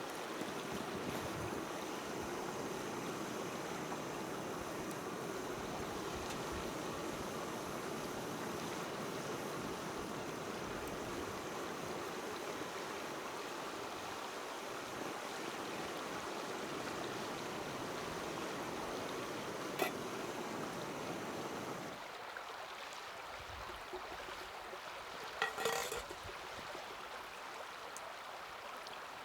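Small wood fire burning in a mini fire pit: a steady rushing hiss that drops away about two-thirds of the way through. There is a single sharp pop, then a quick cluster of pops a few seconds later.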